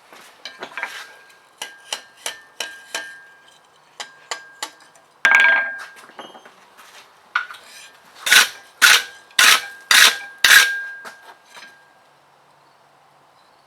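Hammer striking hot steel on an anvil, the anvil ringing after each blow: irregular lighter taps at first, then five heavy blows about half a second apart near the end.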